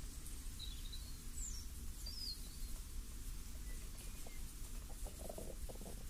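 Songbirds giving a few short, high chirps that slide in pitch in the first half, with a fainter lower call around the middle, over a steady low breeze. A brief soft rustle near the end.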